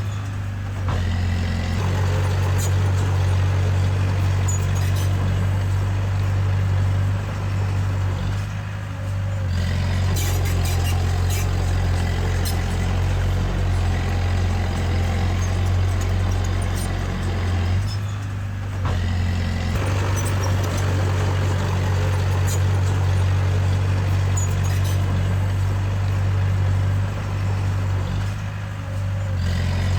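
Diesel engine of a small crawler bulldozer running steadily at work, easing off briefly about every nine to ten seconds.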